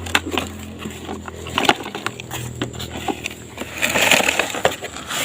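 Plastic toy dump truck being cleaned of sand by hand: a run of small clicks, knocks and gritty scraping, with a louder rushing scrape about four seconds in.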